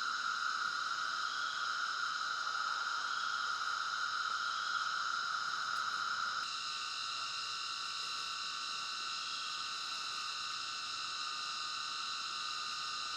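A chorus of night insects, crickets and the like, buzzing steadily at several pitches at once. It drops slightly in level and changes its mix about halfway through.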